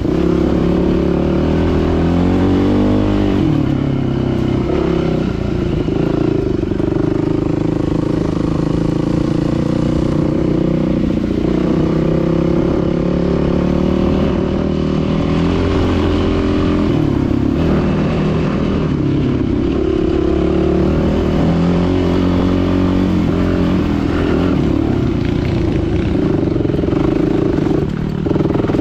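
Dirt bike engine running under way, its pitch rising and falling as the throttle opens and closes and the gears change.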